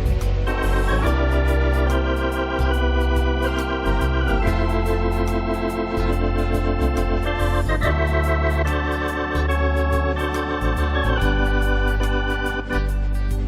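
Lowrey electronic organ playing Christmas music: held chords with vibrato over changing bass notes, and a steady beat.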